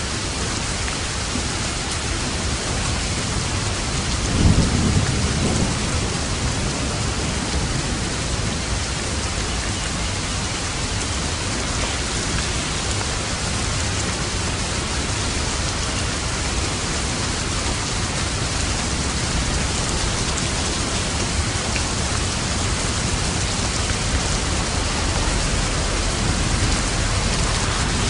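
Steady heavy rain, with a short burst of thunder rumbling about four seconds in and a low rumble of thunder building near the end.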